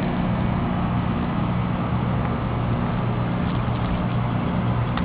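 Steady rushing noise of riding a bicycle at speed: wind buffeting the microphone over the rolling of the tyres, with a few faint ticks.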